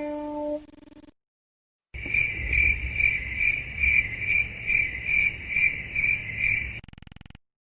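Crickets chirping: a high, steady chirp pulsing about two to three times a second for about five seconds, then cutting off abruptly, as in a stock crickets sound effect. Before it, the tail of a sustained guitar-like music tone fades out, followed by a second of dead silence.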